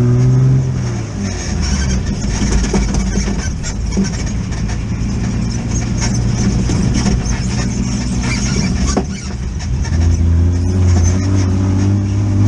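Off-road buggy engine driving over dirt with the throttle easing off just after the start, cruising steadily, dropping off briefly and then picking up again about ten seconds in, with knocks and rattles from the chassis over bumps.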